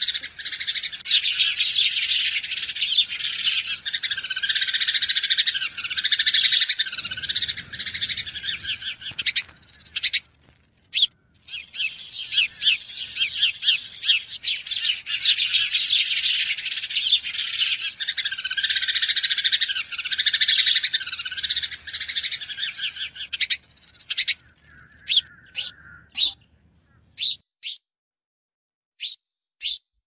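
Birds chirping: a dense, unbroken chorus of high chirps that breaks off briefly about ten seconds in. Near the end it gives way to single short chirps about half a second apart.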